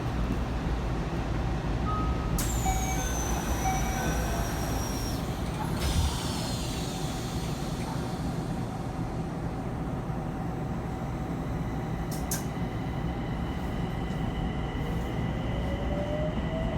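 Yokohama Municipal Subway 4000 series train heard from on board, with a steady low rumble and a high whine that falls in pitch a few seconds in. Near the end a motor whine rises in pitch as the train gathers speed.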